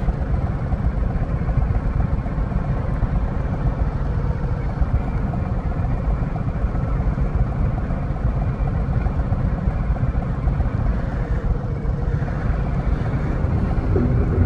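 Harley-Davidson Low Rider ST motorcycle's V-twin engine running steadily.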